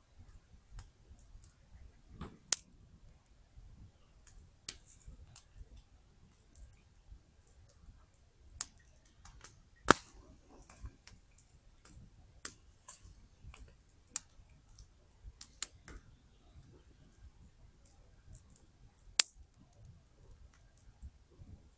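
Wood campfire crackling: irregular small pops and ticks, with three loud sharp snaps of burning wood, about two seconds in, about ten seconds in and near the end.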